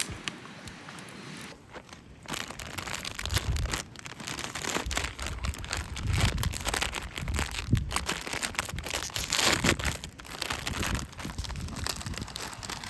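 Irregular crinkling and crunching handling noise, a dense run of small clicks and rustles that grows louder about two seconds in.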